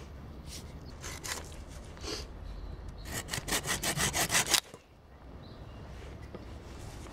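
A saw cutting wood: a few separate strokes, then a quick run of rapid, even strokes lasting about a second and a half that stops abruptly.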